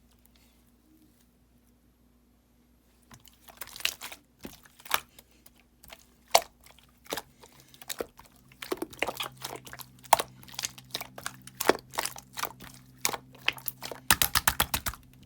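Clear blue slime being squeezed and pressed by hand, making sharp pops and clicks. They start about three seconds in, come scattered at first, grow denser, and end in a rapid run of pops near the end.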